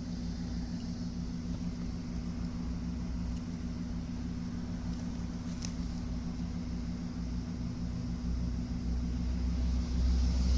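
Steady low hum with a faint hiss behind it, growing somewhat louder near the end, and one short click about halfway through.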